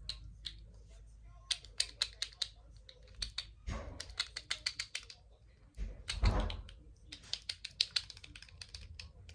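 Quick runs of light clicking taps on hard makeup packaging, the kind of nail-tapping used for ASMR triggers, with two duller, louder knocks about a third and two-thirds of the way through.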